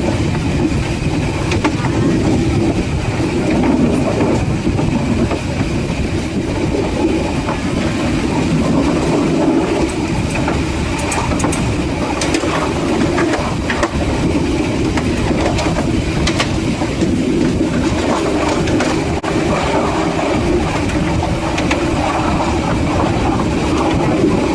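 Train running along the track with a steady, loud rumble and some clicks from the wheels, most of them in the middle of the stretch.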